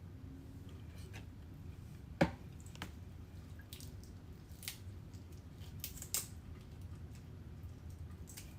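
Raw shrimp being cleaned and deveined by hand: scattered small wet clicks and scrapes, the sharpest about two seconds in, over a low steady hum.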